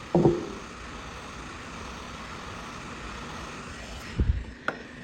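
Hot-air rework heat gun blowing steadily as it preheats a circuit board, with a low thump and a sharp click near the end.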